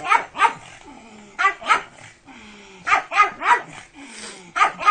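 Pug barking sharply and repeatedly in quick runs of two or three barks, about nine barks in all.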